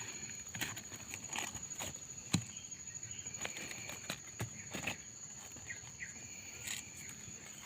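Irregular footsteps crunching and crackling through dry leaf litter, under a steady high-pitched insect drone.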